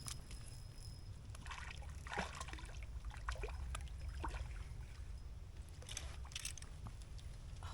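Water splashing and dripping in short, scattered bursts as a hooked fish is brought in with a landing net, over a steady low rumble.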